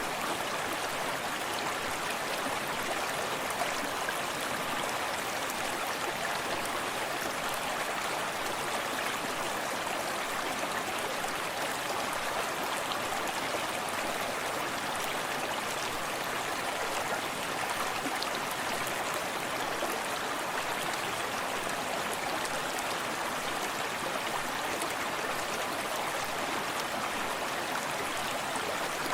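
Forest stream running steadily over rocks, a continuous, even rush of water with small splashes and trickles.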